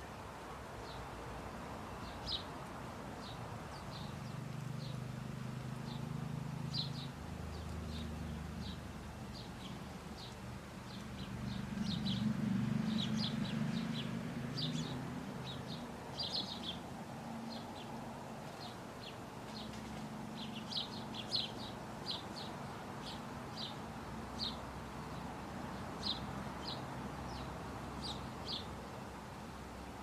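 Small garden birds giving many short, high chirps, scattered singly and in quick little clusters, over a low rumble that swells and is loudest about halfway through.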